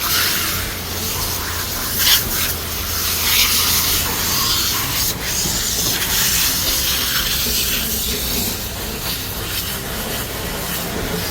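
Water spraying in a steady hiss, as when rinsing a dog during its bath, with a few brief louder splashes.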